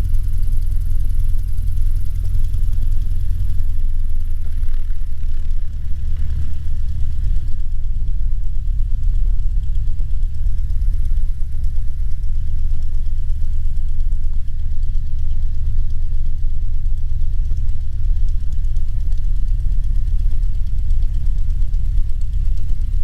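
Cessna 150's four-cylinder Continental O-200 engine running at low taxi power as a steady low drone.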